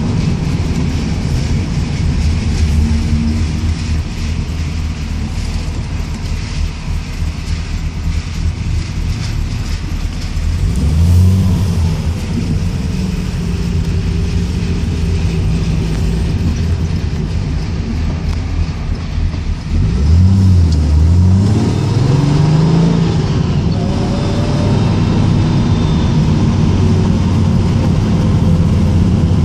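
Triumph GT6's two-litre straight-six engine heard from inside the cabin, running at low speed in traffic after ignition retiming and carburettor balancing. It revs up about ten seconds in, and again about twenty seconds in, where the pitch dips briefly at a gear change before climbing again.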